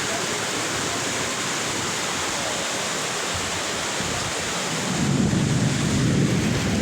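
Heavy rain pouring down in a steady hiss. About five seconds in, a low rumble joins it and the sound grows louder.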